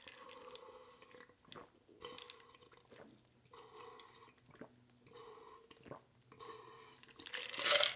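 Close-miked chewing and smacking of food in soft, repeated bouts about once a second, with a louder breathy burst near the end.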